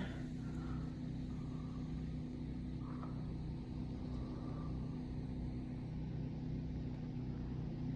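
Portable generator engine running steadily, a low, even hum of several stacked tones with no change in speed.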